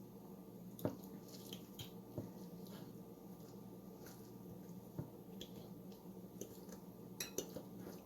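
Forks clicking and tapping against a dish, with soft wet squishes, as tender cooked chicken thighs are shredded off the bone. The clicks are scattered and the loudest comes about a second in, over a steady low hum.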